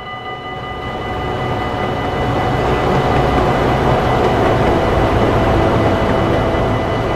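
A train rushes past at a level crossing, the noise swelling to its loudest about four seconds in and then easing. The crossing's warning bell keeps ringing over it.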